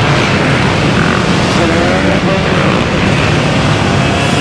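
Steady rushing noise of riding at speed in traffic, wind buffeting the microphone, with a faint engine note rising in pitch about a second and a half in.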